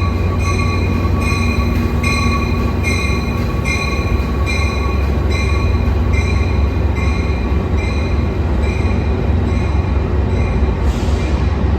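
Metra train's locomotive bell ringing steadily, about two strokes a second, over the low rumble of the train rolling into the station. The bell fades near the end, where there is a brief hiss.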